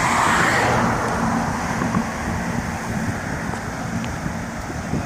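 Road traffic: a car passing close by, its tyre hiss dying away in the first second, then a steady lower traffic rumble with wind on the microphone.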